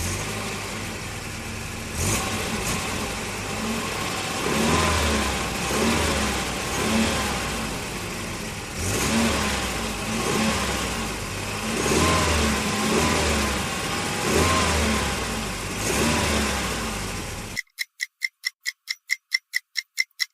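Volvo car engine running and being revved repeatedly, its pitch rising and falling several times. About three seconds before the end it cuts off suddenly and gives way to fast, even clock-like ticking, about six ticks a second, from a countdown timer.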